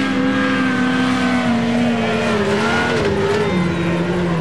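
Off-road race vehicle's engine running hard, its note wavering and slowly dropping in pitch.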